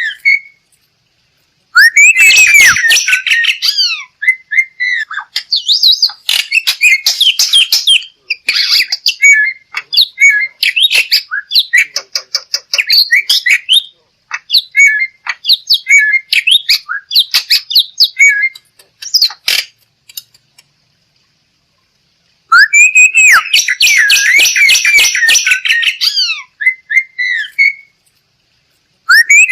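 Black-winged myna (jalak putih) calling: a run of loud chattering phrases with sliding whistled notes, broken by short pauses. It gives a long harsh squawking burst about two seconds in and another about twenty-three seconds in.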